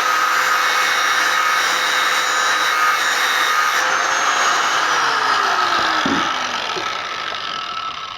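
Power tool running at full speed while grinding down the threaded end of a steel hinge pin to give it a taper. It is switched off about four and a half seconds in, and its whine falls in pitch as it spins down.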